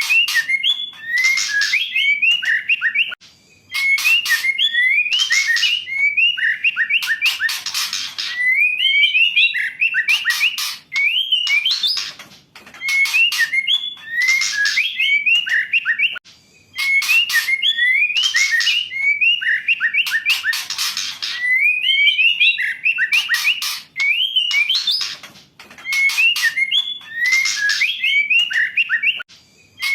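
Female white-rumped shama calling: phrases of quick whistled notes mixed with harsh rasping bursts and sharp clicks, repeated every few seconds with brief pauses between them.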